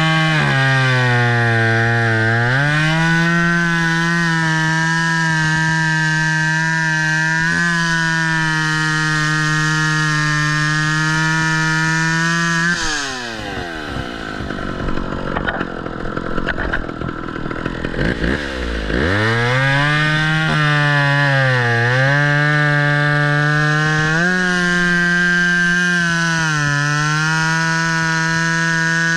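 Two-stroke chainsaw at full throttle cutting wood, its pitch dipping briefly each time the chain bogs under load. About halfway through it is throttled back to idle for several seconds, then revved up again and cutting resumes.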